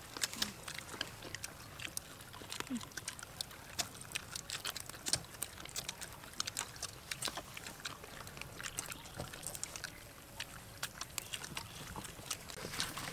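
Several people eating deep-fried chicken feet by hand: chewing, lip smacking and small crunches, a dense irregular patter of short clicks.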